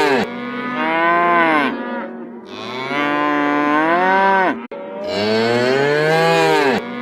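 A large animal's long, low, moo-like calls, repeated about every two seconds, each falling in pitch as it ends.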